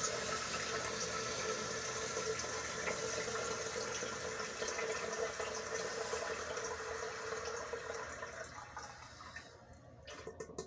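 A 360° swirl-flush toilet flushing: a steady rush of water that dies away about eight to ten seconds in, followed by a few small clicks.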